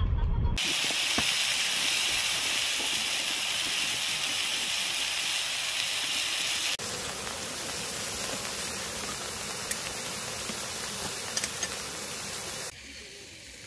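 Pork and vegetables sizzling on a round griddle pan, a steady frying hiss. It jumps abruptly about seven seconds in and stops suddenly near the end.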